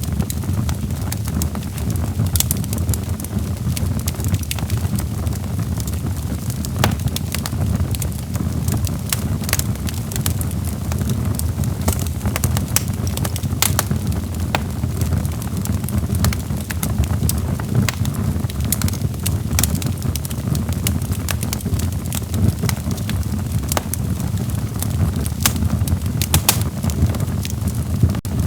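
Wood logs burning in a fireplace: a steady low rush of flames with frequent sharp crackles and pops throughout.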